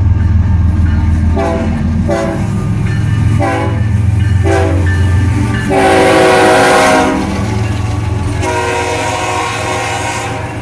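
Locomotive multi-chime air horn played in a string of short taps, then a louder, longer blast about six seconds in and another held blast near the end, over the low rumble of the lead GE ES44AH diesel locomotives.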